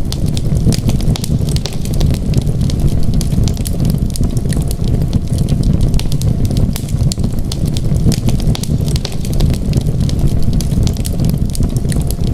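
Wood fire burning in a fireplace, with many small irregular crackles and pops over a steady low rumble.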